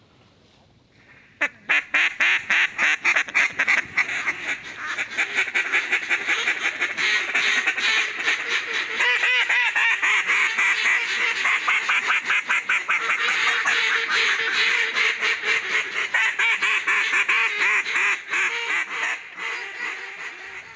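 Rapid duck quacking, many quacks a second in a dense, continuous run that starts about a second and a half in and fades near the end.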